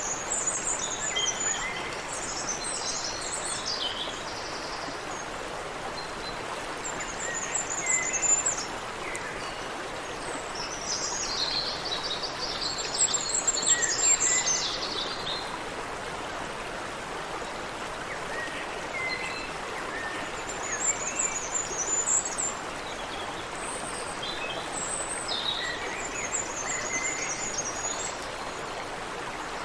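Small birds singing in repeated high twittering phrases over the steady rush of a stream. The birdsong comes and goes every few seconds, loudest around the middle.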